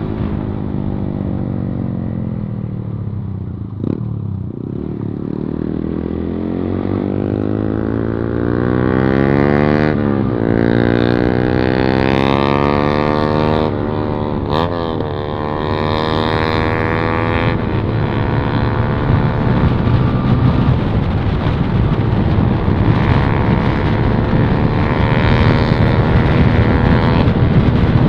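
Yamaha MT-15's single-cylinder engine running through a modified exhaust with the dB killer removed, accelerating through the gears: the pitch climbs and drops at each shift several times in the first half, then holds fairly steady as the bike cruises.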